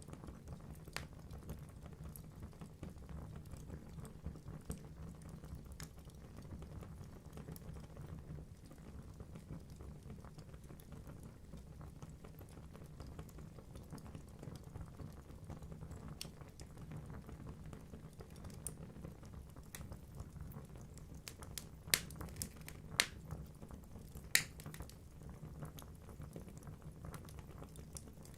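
Wood fire burning in a fireplace: a low, steady rumble of flames with scattered small crackles from the logs, and three louder pops in quick succession about three-quarters of the way through.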